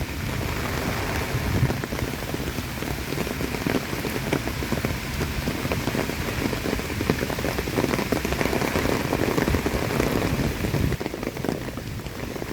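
Heavy typhoon rain falling steadily with many small drop strikes, in strong wind.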